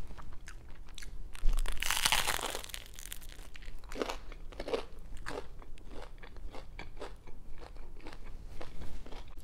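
Biting and chewing a toasted mac-and-cheese grilled cheese sandwich close to the microphone. A loud crunch of the toasted bread comes about one and a half seconds in, then a run of softer, irregular crunching chews.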